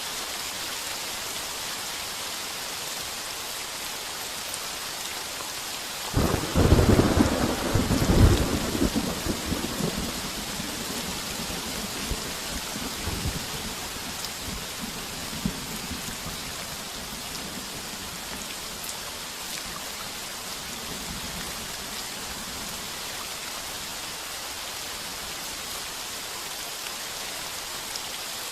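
Heavy rain falling steadily. About six seconds in, a close thunderclap cracks and rolls into rumbling that dies away over the next ten seconds.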